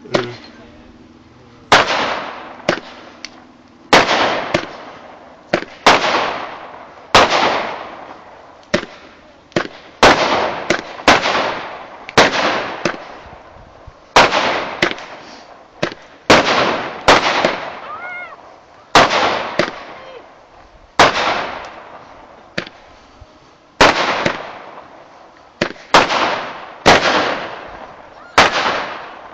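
Fireworks from a ground-lit multi-shot barrage going off shot after shot, about one loud sharp bang a second. Each bang dies away over a second or so before the next.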